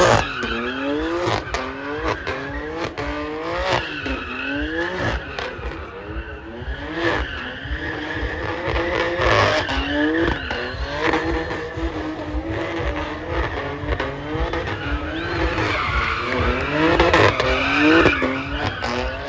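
A car engine revved hard in quick, repeated rising surges, with tyres squealing and skidding on tarmac.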